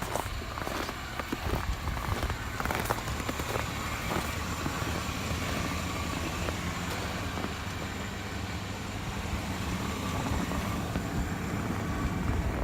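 2001 Chevrolet Suburban's V8 engine idling steadily, with a few light clicks and knocks in the first few seconds.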